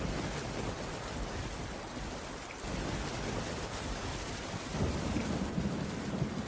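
Steady rain on a wooden roof, with a low rumble underneath that grows louder about three seconds in and again near the end.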